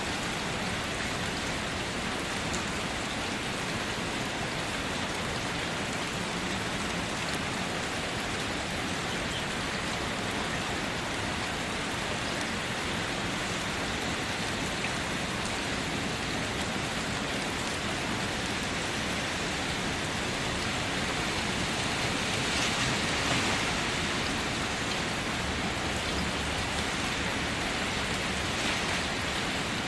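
Steady heavy rain pouring down, an even hiss of drops with no other sound, growing a little louder for a couple of seconds about two-thirds through.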